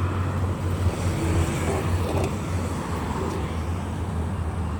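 Steady road traffic noise from cars on a busy road: engines and tyre noise blending into a continuous low hum.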